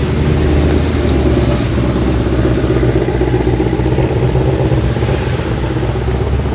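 A car engine idling steadily, a low, even sound with no revving.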